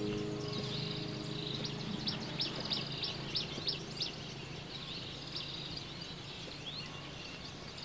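Small birds chirping over a steady outdoor hiss, with a quick run of sharp chirps about two to four seconds in. A held musical chord fades out in the first second.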